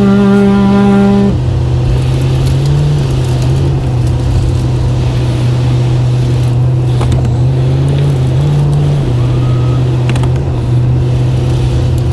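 Plow truck engine running steadily, its low hum stepping up in pitch briefly twice. A steady pitched tone stops about a second in.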